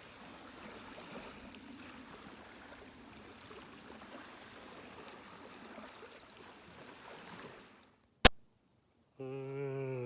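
Faint lakeside ambience of water lapping, with a faint high ticking repeated over it. It breaks off, and about eight seconds in there is a single loud sharp click. Near the end comes a brief held, pitched call that drops at its end.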